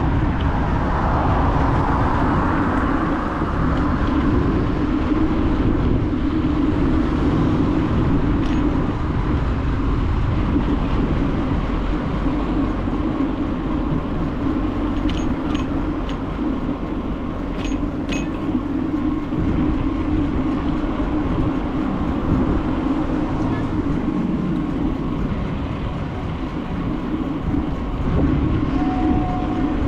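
Steady rumble of wind and rolling noise from a bicycle ride, with a few faint sharp clicks about halfway through.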